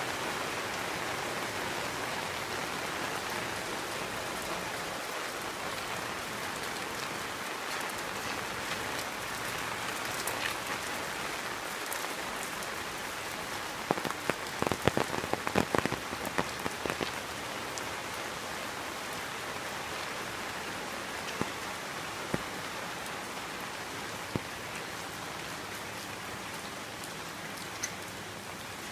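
Heavy rain falling steadily on a wet lane. About halfway through, a flurry of sharp taps rises above it, with a few more single taps later.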